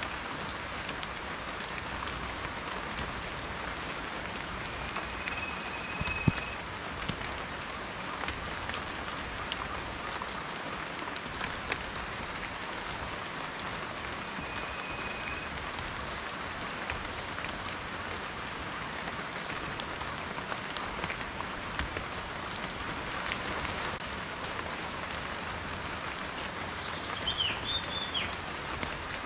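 Steady rain with many individual drops ticking on a surface close by. A few brief high calls come through, the last a short wavering one near the end.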